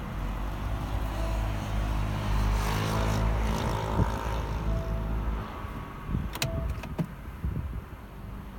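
Low motor-vehicle engine rumble, loudest in the first half and fading away about five and a half seconds in, followed by two sharp clicks.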